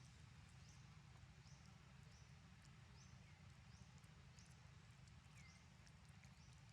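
Faint, short high-pitched chirps from a small animal, repeating about once a second, with scattered light clicks over a low steady rumble.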